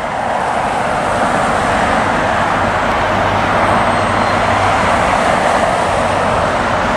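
Steady, unbroken roar of jet aircraft engines.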